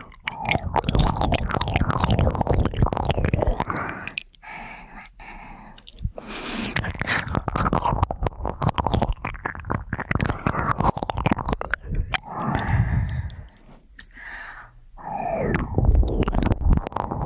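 ASMR ear cleaning: an ear pick scratching and rubbing inside a binaural microphone's ear, a close, dense crackling and scraping that eases off twice for a second or two.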